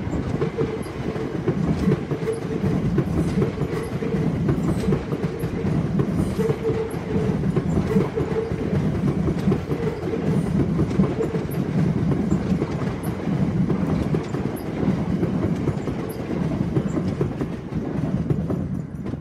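Electric multiple-unit passenger train running past below, its wheels rumbling over the rails with a rhythmic clickety-clack. The sound drops away near the end as the last carriage passes.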